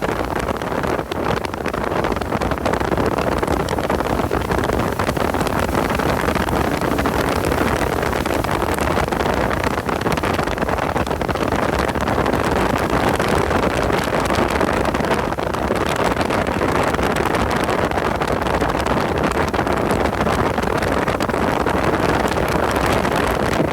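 Steady, loud din of a car driven at speed: engine, road and wind noise on an onboard microphone.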